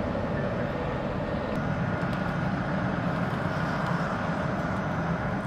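A vehicle's steady running hum, with a faint steady whine over it.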